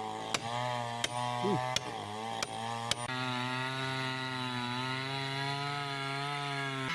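Chainsaw engine running at high, steady speed while cutting wood, with a few sharp cracks in the first three seconds.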